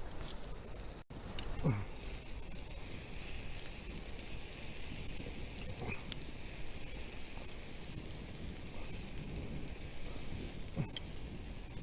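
Beef steak sizzling on a grill over a campfire: a steady, even sizzle with a few faint clicks.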